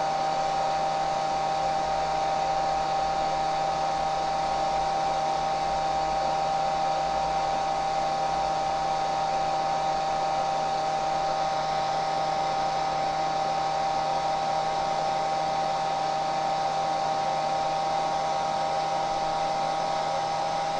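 Hair dryer running steadily: an even blowing rush with a constant high whine from its motor and fan.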